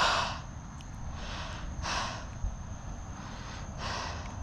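A cyclist breathing hard under heavy effort, with a heavy breath about once a second, the strongest right at the start, over a steady low rumble of riding noise.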